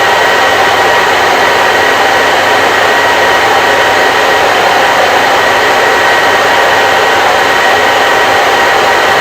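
Hair dryer running steadily with a constant blowing rush and a faint steady whine.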